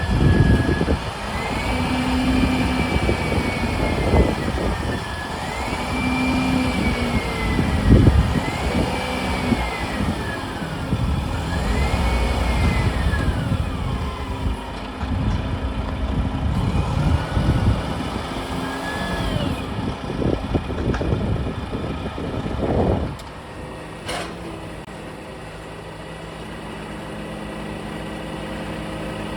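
Garbage truck's engine revving repeatedly with a whine that rises and falls, then settling to a steady idle about 23 seconds in; a single sharp click follows shortly after.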